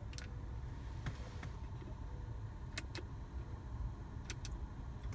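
Sharp plastic clicks of the map-light switches under a 2004 Ford Mustang's rear-view mirror being pressed, a single click first, then two, then two quick pairs, over a low steady rumble.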